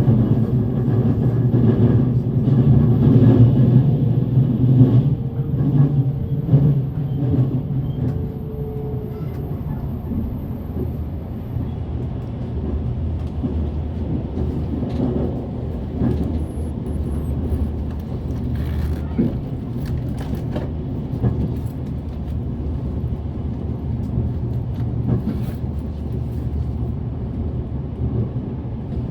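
Cabin running sound of a JR Central 383 series electric express train: a steady low rumble of wheels on rail, heaviest in the first few seconds and then settling, with scattered clicks from the track.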